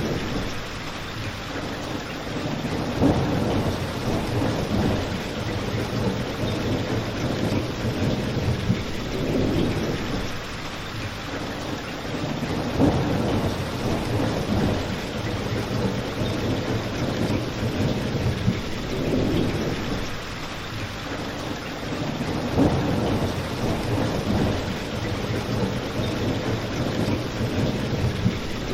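Steady rain falling outside windows, with a low rumble that swells and fades every few seconds. A fireplace crackles, with a few sharper pops.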